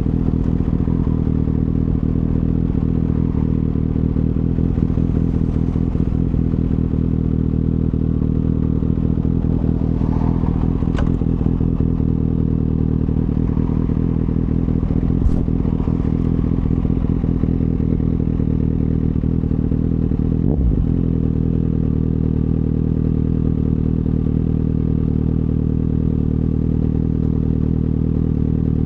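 The 2024 Kawasaki ZX-6R's inline-four engine runs through an M4 slip-on exhaust at steady, unchanging revs while cruising. A brief thump comes about two-thirds of the way through.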